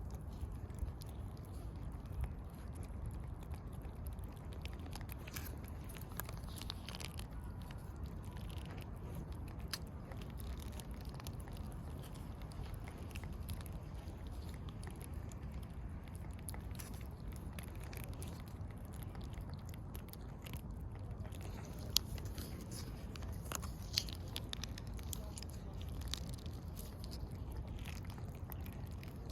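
A cat chewing and crunching food, many short crisp bites scattered irregularly over a steady low rumble.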